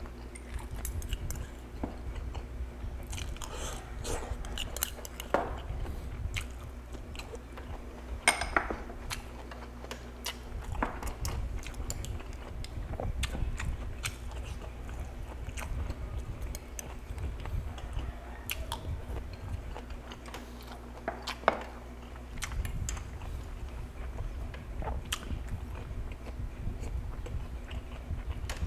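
A man chewing and biting roast chicken and vegetable side dishes close to the microphone, with mouth sounds, crunches and scattered sharp clicks; two clicks, about 8 and 21 seconds in, stand out as loudest. A faint low hum runs underneath.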